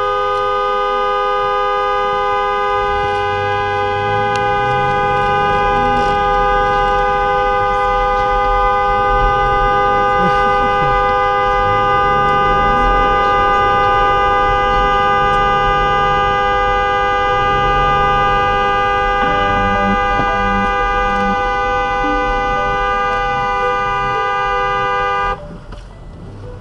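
Car horn held down without a break for about 25 seconds, sounding two notes at once, then released near the end.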